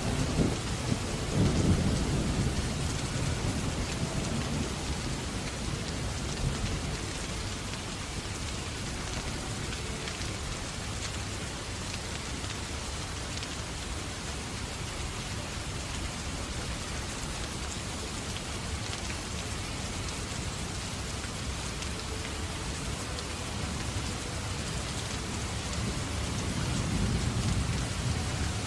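Steady rain, with low rumbling thunder that fades over the first few seconds and swells again near the end.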